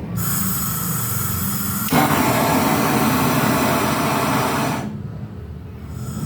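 Gas brazing torch hissing steadily. It gets louder about two seconds in as the flame is opened up, then cuts off near the end.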